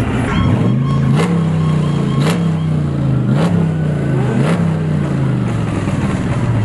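Car engine revved in repeated blips, about once a second, four times in a row; each time the pitch jumps up with a sharp crack and then sinks back.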